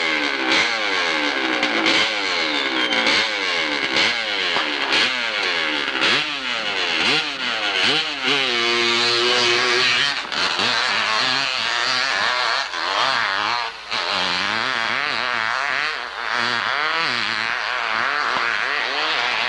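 Competition hillclimb motorcycle engine revving hard, its pitch rising and falling rapidly over and over as the throttle is worked. The revs are held high and steady for a couple of seconds around the middle.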